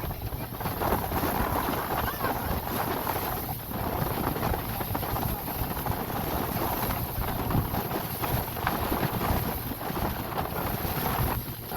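Wind buffeting the microphone unevenly throughout, over a steady low drone from a boat's engine.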